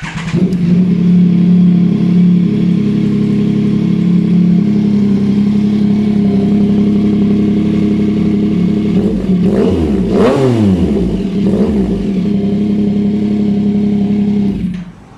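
Yamaha Tracer 9 GT's CP3 inline-three engine running through a loud short aftermarket slip-on exhaust: steady idle, blipped up and back down a couple of times about two-thirds through, then it goes quiet near the end.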